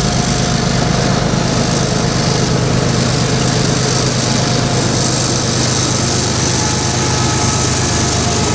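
Freight train passing at close range: a loud, steady rumble with an engine-like drone that holds level throughout.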